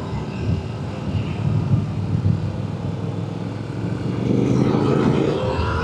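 Yamaha R7 sport bike's engine running under way, with wind noise. About four seconds in, the engine note rises and grows louder as the bike accelerates.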